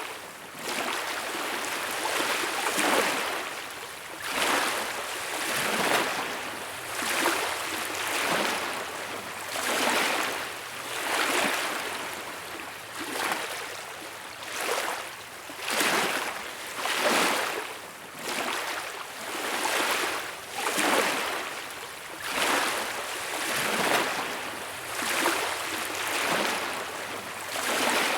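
Small waves washing on a beach, each swelling into a hiss and falling back every one and a half to two seconds.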